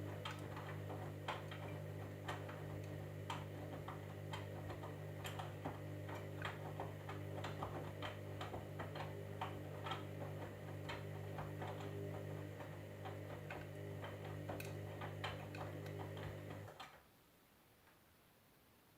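Candy washing machine running with a steady motor hum and frequent light clicks as the drum turns, then stopping abruptly near the end.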